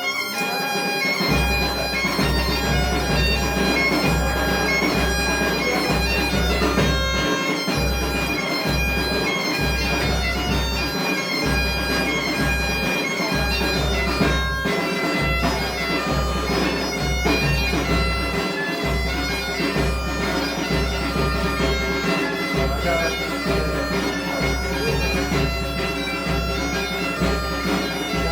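Galician bagpipe (gaita) playing a lively tune over its steady drone, accompanied by a drum beating underneath.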